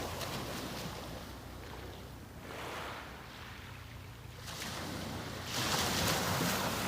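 Sea waves breaking and washing up a beach in a rising and falling hiss, with a bigger wave swelling up about five seconds in and breaking loudest near the end.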